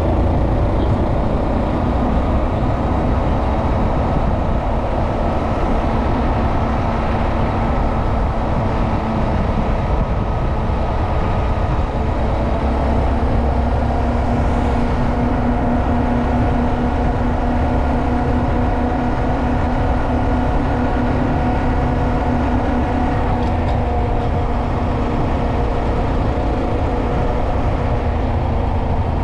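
Honda Monkey 125's single-cylinder four-stroke engine running steadily under way, over a heavy low rumble of wind and road noise. Its note shifts a little about twelve seconds in.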